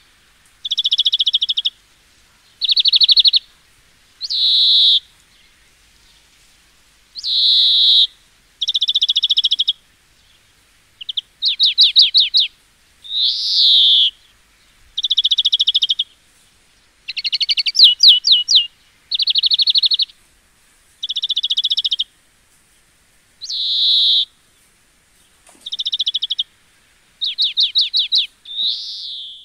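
A songbird singing close by: short, high-pitched phrases of about a second each, repeated every second or two with brief pauses, some delivered as rapid trills.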